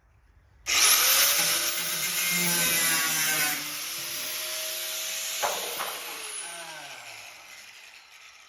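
A handheld power tool switched on about a second in, running loud with a high whine that climbs as it spins up, then easing off and spinning down with a falling whine, fading out near the end.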